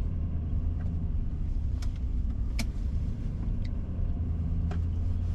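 Car engine and road noise while driving slowly, a steady low hum, with a few light ticks scattered through it.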